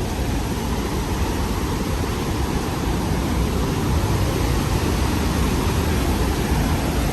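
Steady rush of the Rhine Falls' water, a loud, even noise strongest in the low range with no breaks.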